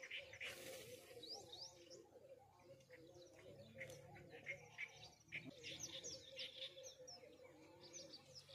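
Several small birds chirping faintly, many short high chirps and quick slurred notes overlapping one another.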